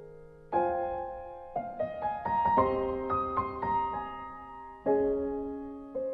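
Slow, soft solo piano music: a chord is struck about half a second in and another near five seconds, with single notes between, each left to ring and fade.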